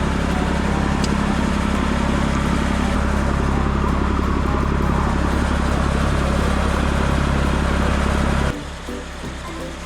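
Engine running steadily at an unchanging speed, cutting off abruptly about eight and a half seconds in, where quieter music begins.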